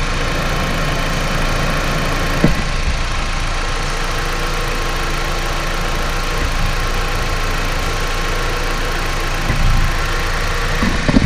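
Dodge Journey's engine idling steadily with the hood open while its air conditioning, low on refrigerant, is charged with R-1234yf through the low-side port. A single short click about two and a half seconds in.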